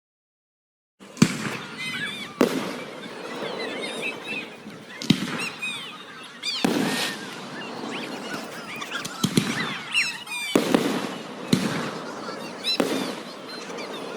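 Fireworks display: aerial shells bursting in sharp bangs about a second or two apart, about eight in all, starting about a second in. High whistling and crackle run between the bangs.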